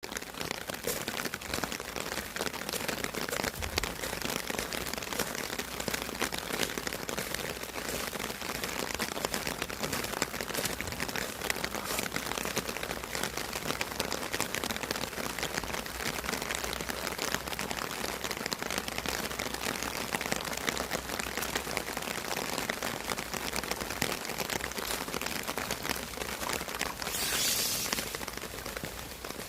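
Steady rain falling, a dense hiss of many small drop ticks. A brief, louder high hiss comes near the end.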